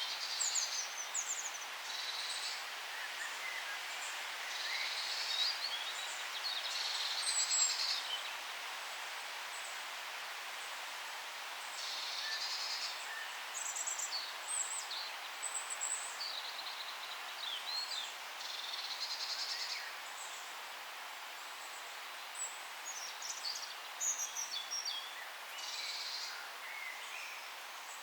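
Several birds chirping and trilling in short high-pitched phrases over a steady background hiss of forest ambience, with brief lulls between bursts of song.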